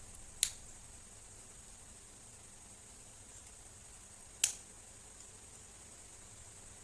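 Two short, sharp clicks about four seconds apart, from small parts being handled while a laptop is being worked on, over a faint steady hiss.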